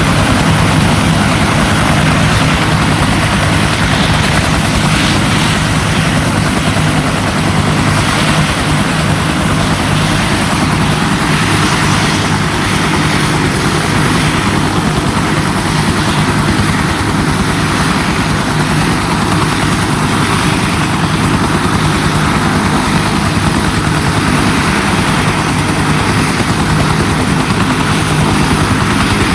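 Bell UH-1 helicopter running steadily, its single turboshaft engine and two-blade main rotor making a loud, unbroken drone with a fast, even rotor beat.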